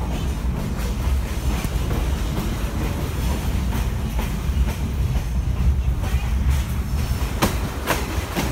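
Passenger train coach rolling along the track: a steady low rumble with the irregular clickety-clack of the wheels, and two sharp clacks close together near the end.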